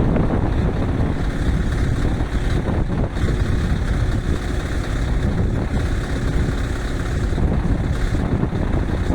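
Heavy truck engine running steadily, a low rumble mixed with wind rushing over the microphone.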